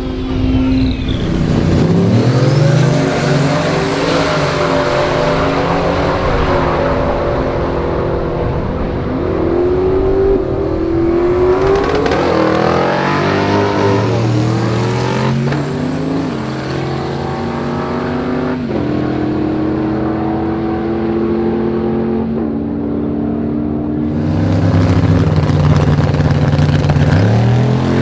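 High-powered drag-race car engines revving and accelerating, several of them rising and falling in pitch, with sudden changes about 15 and 19 seconds in and a loud rise near the end.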